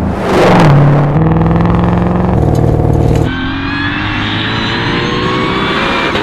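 Ford Mustang Shelby GT500's supercharged V8 at full throttle. A loud rush comes in the first second, then the engine note holds, breaks about three seconds in, and climbs steadily as the car accelerates.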